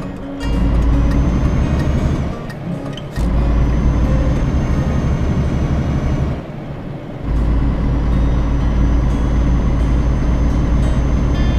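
Heavy truck's diesel engine running under load with a deep, steady rumble, dropping away briefly three times before picking up again.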